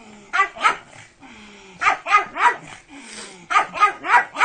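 A pug barking in quick bursts: two barks, then three, then four in a row.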